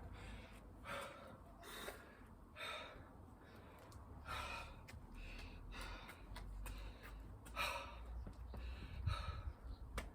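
A man breathing hard, with heavy gasping breaths about one a second: out of breath from exertion.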